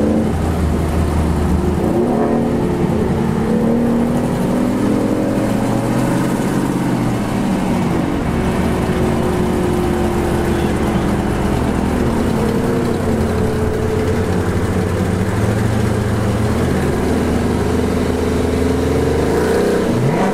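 Dodge Charger's engine heard from inside the cabin while driving, a steady low drone with the revs slowly rising and falling.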